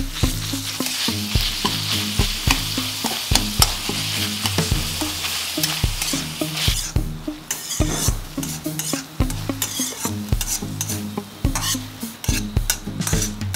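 Minced chicken and garlic sizzling in oil in a wok while a metal spatula stirs them, scraping and tapping against the wok over and over. The sizzle is strongest at first and dies down after about seven seconds, leaving mostly the spatula's clicks and scrapes.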